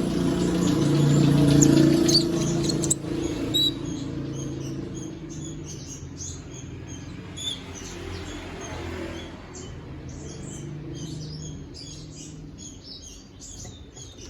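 Konin songbird chirping in quick, short high notes, which come thick and fast in the last few seconds. Under it runs a low hum, loudest in the first few seconds, then fading.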